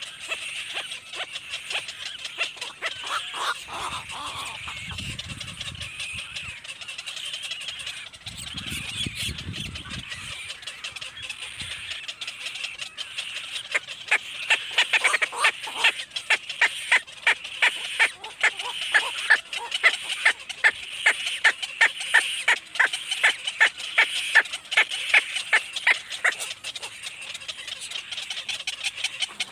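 Baby birds calling with rapid, repeated high chirps. The calls grow louder and more insistent about halfway through, then ease off near the end.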